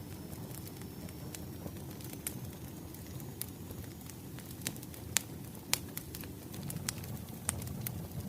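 Wood fire crackling: a steady low rumble of burning logs with irregular sharp pops and snaps, two of them louder a little past the middle.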